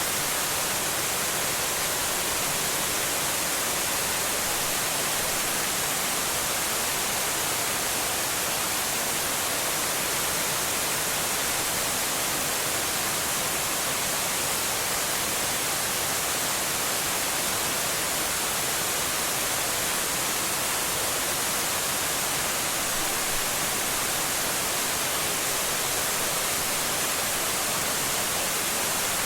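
Waterfall rushing steadily: an unbroken, even hiss of falling water with no change in level.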